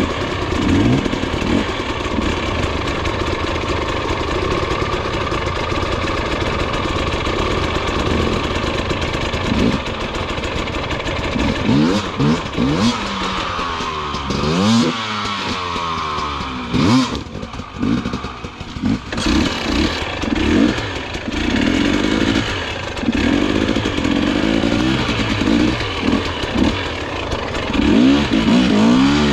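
Dirt bike engine revving up and falling back again and again as the throttle is worked, with a brief drop a little past the middle before it picks up again.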